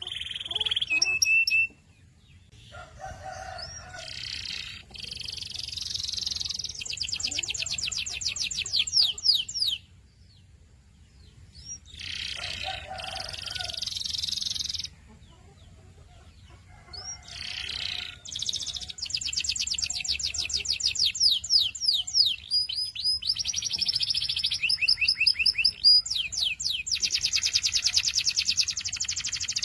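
Domestic canary singing in long phrases of fast, evenly repeated high notes (rolls and trills). The song breaks off twice for a couple of seconds, about ten and fifteen seconds in.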